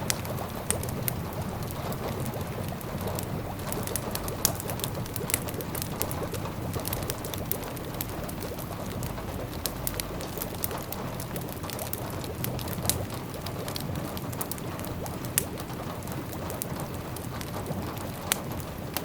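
Wood fire crackling in a fireplace, with frequent sharp pops and snaps over a steady hiss of rain, and a low rumble underneath.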